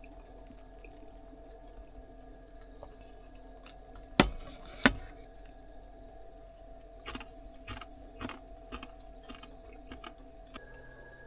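Two sharp clicks or knocks about 0.7 s apart, then a run of softer clicks and small handling noises, over a steady low hum in a small enclosed space.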